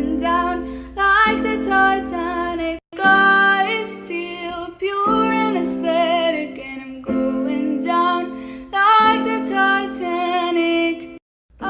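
Music: a voice singing a song over plucked-string accompaniment, with held chords under the wavering melody. It breaks off briefly about three seconds in and stops just before the end.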